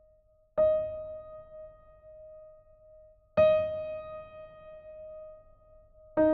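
Slow, sparse piano music: a single note struck about every three seconds and left to ring out, the same note twice, then two notes together near the end.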